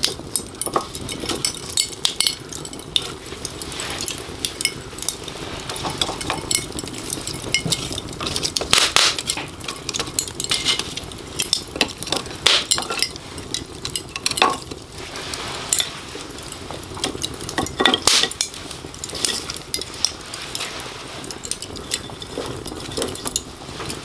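Wood fire crackling, with many irregular sharp pops and snaps over a steady hiss.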